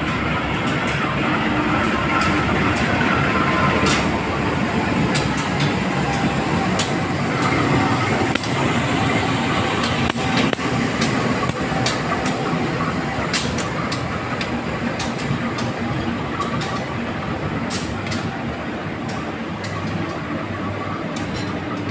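Passenger train running on the rails: a steady rumble with many sharp clicks of wheels passing over rail joints, and faint high squealing from the wheels.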